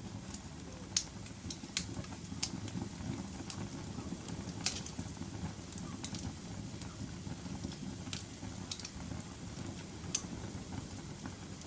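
Wood fire burning in a fireplace: a steady low rush of flames with irregular sharp crackles and pops, about seven distinct snaps spread through.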